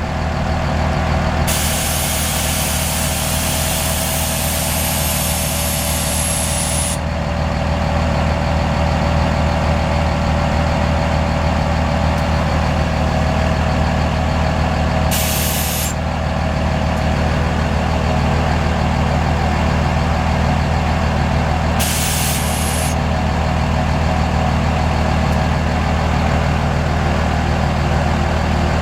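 Diesel truck engine idling steadily, with three bursts of hissing air: a long one of about five seconds near the start, then two short ones.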